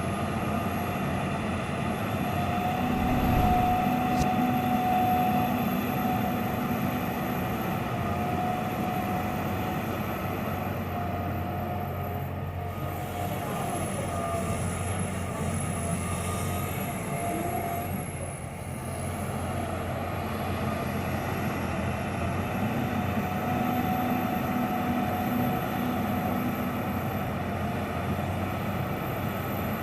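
John Deere 350G LC hydraulic excavator's diesel engine and hydraulics running steadily as it works, with a steady whine over the engine's hum. It swells louder a few seconds in and again near the end, and eases briefly past the middle.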